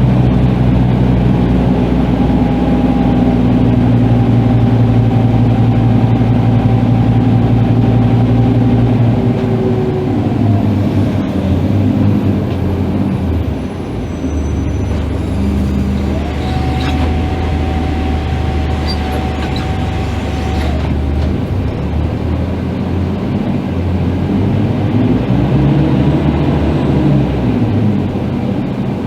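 Scania K310IB bus engine running while the bus is driven, its pitch steady, then dropping about ten seconds in and rising and falling again near the end. A steady high whine sounds for several seconds in the middle and cuts off suddenly.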